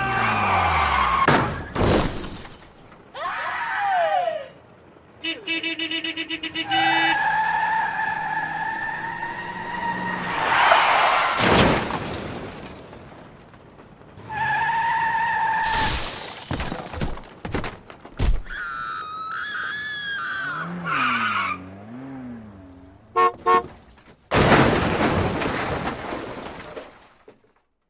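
Sound-effects sequence of a car crash: a falling tyre screech, sharp impacts with breaking glass, and a car horn sounding in two long blasts. A last noisy crash dies away near the end.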